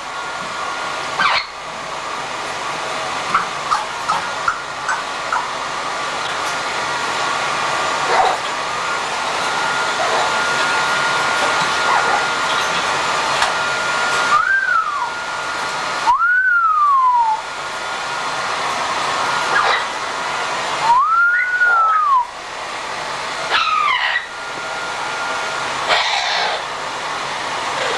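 A pet parrot giving several short whistled calls that rise and fall, over a loud steady hiss. There are a few light clicks in the first seconds.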